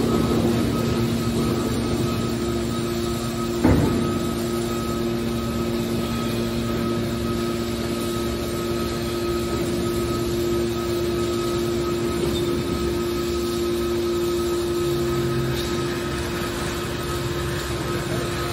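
Scrap metal baler machinery running with a steady hum and a few constant tones, with a single knock about four seconds in.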